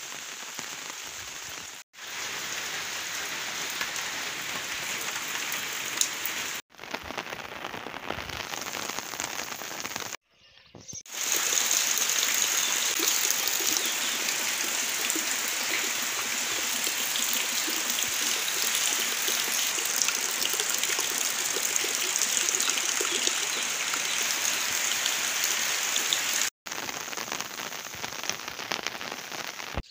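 Rain falling steadily, an even hiss of drops, broken by a few brief dropouts and louder from about a third of the way through.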